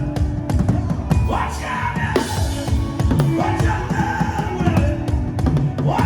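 Drum kit played in a fast, dense beat with other music over it, including sliding pitched notes about a second and a half in and again around four seconds in.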